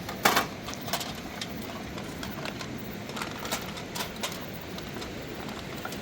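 A loud sharp click about a quarter second in, then scattered fainter clicks and knocks over steady background noise.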